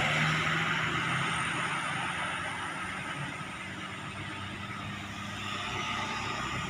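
Road traffic: a passing heavy vehicle's engine and tyre noise fading away, then rising again near the end as more traffic approaches.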